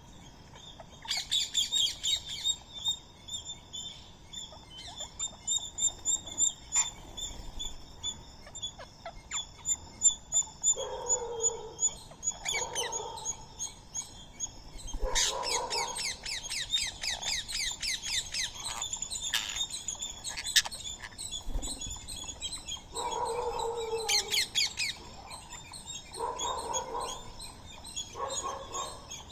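Birds chirping and calling together: fast, high chirping keeps going throughout, and short, lower-pitched calls come in several times in the second half.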